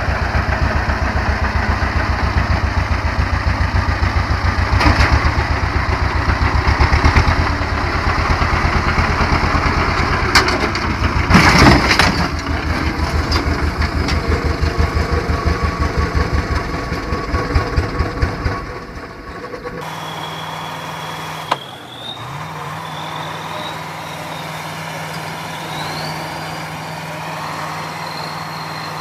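Heavy vehicle diesel engine running close, with a loud, fast, even chugging and a couple of brief louder surges partway through. After an abrupt cut about two-thirds of the way in, it gives way to a quieter, steady engine hum with a thin high whine that wavers in pitch.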